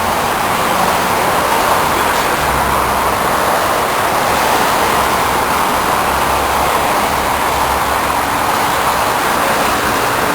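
Steady vehicle noise, a continuous rumble and hiss, with a low engine hum that swells from about two seconds in and fades again near eight seconds.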